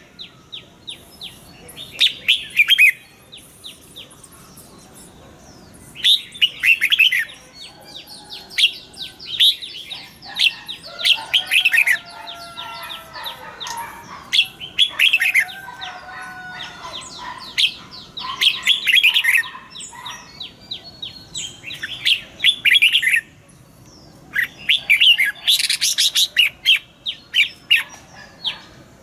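Red-whiskered bulbuls singing: short bursts of rapid chirping phrases repeated every few seconds, with some lower sliding notes in the middle.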